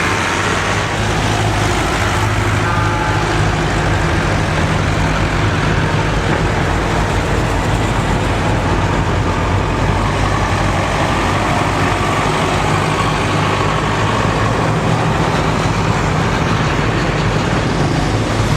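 Tractor engine running steadily, a low even drone with no change in speed.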